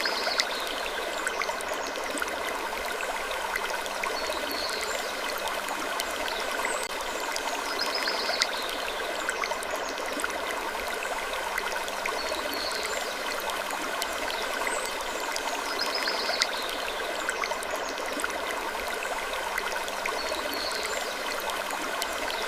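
Sleep-ambience wood creaking: a steady, stream-like rushing sound with soft falling creaks that recur every three to four seconds.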